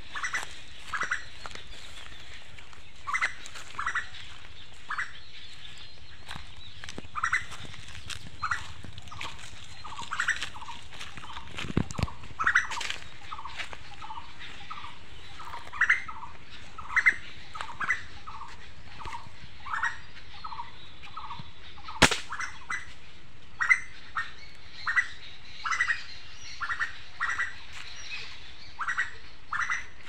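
Birds calling with short, repeated notes, often in quick pairs, through the whole stretch, with a run of fainter, evenly spaced calls in the middle. A low thud sounds near the middle, and a single sharp snap about two-thirds of the way through is the loudest sound.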